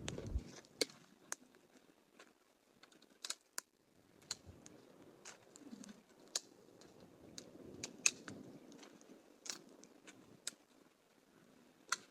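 Small campfire crackling: irregular sharp pops and snaps, one to three a second, over a faint low rumble.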